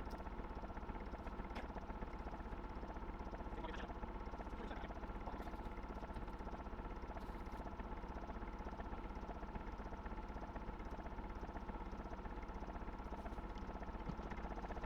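Gardner 2LW two-cylinder diesel engine running steadily at a slow tick-over, with an even, regular beat and a few faint clicks.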